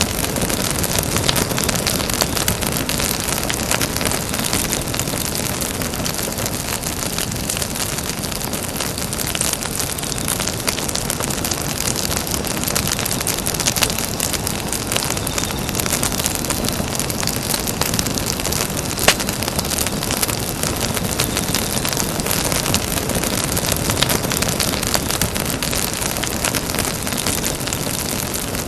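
Campfire burning with steady dense crackling, with scattered louder pops and one sharp snap about two-thirds of the way through.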